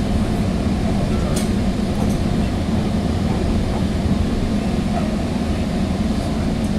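Steady running noise of a Sounder commuter train in motion, heard from inside the passenger car: a low, even rumble with a couple of faint clicks about a second and a half in.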